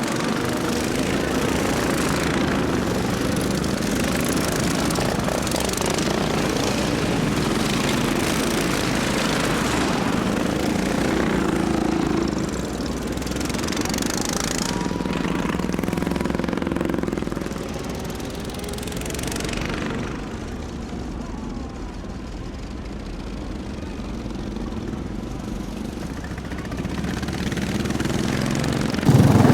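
Racing lawnmower engines running hard as the machines go past, with the engine pitch falling as they pass. The noise eases off a little about two-thirds of the way through, then builds again near the end.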